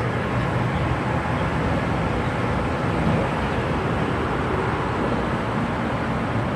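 Large river oil tanker boat's engine running steadily as it passes, a constant low drone without breaks.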